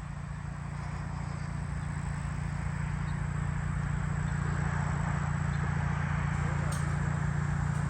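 A motor vehicle engine running steadily, with a low hum that slowly grows louder.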